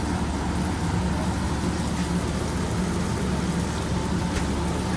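Steady mechanical hum and hiss of a food-truck kitchen at work, with a few faint clicks.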